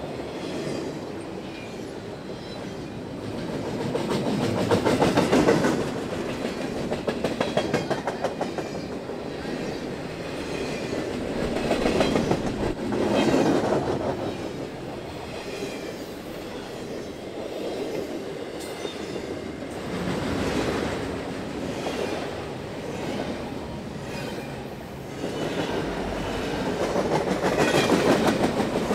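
Double-stack intermodal freight train rolling past: steel wheels clicking rapidly over the rail joints over a steady rumble, the clatter swelling and fading as groups of cars pass.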